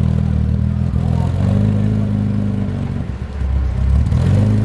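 A car engine running steadily, its note shifting up and down a few times.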